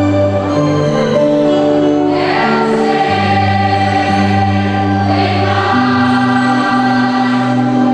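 A choir singing a gospel hymn in sustained chords over keyboard accompaniment, with cymbal crashes at about two and five seconds in.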